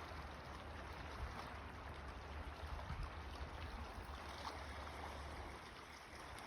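Steady, even rushing of flowing water, like a stream, with a low rumble underneath.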